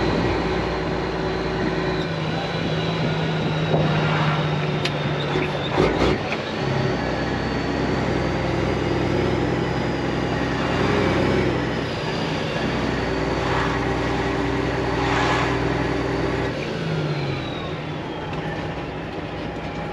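Semi-truck's diesel engine heard from inside the cab while driving off, its note shifting in steps several times. A few short knocks come about five to six seconds in.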